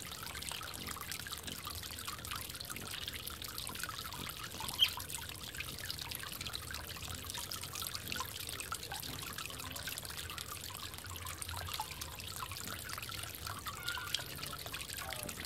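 Water trickling and dribbling steadily in a bird bath, with many small splashes and one sharp click about five seconds in.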